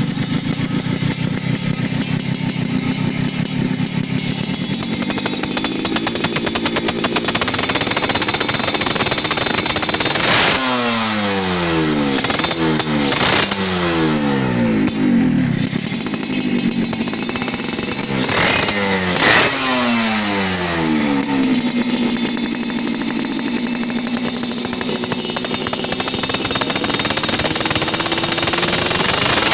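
Yamaha RX-King's two-stroke single-cylinder engine running through an aftermarket Hogo 3v3 exhaust. It idles steadily, is revved several times in quick succession in the middle with the pitch rising and falling, then settles back to a steady idle that creeps up near the end.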